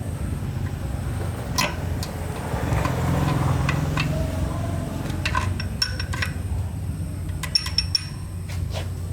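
Metal-on-metal clinks and taps from tools and parts being handled, some ringing briefly, in small clusters over a steady low hum.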